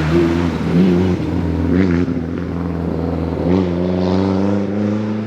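Rally car engine running hard on a forest stage, its note rising and dipping several times as the throttle is worked.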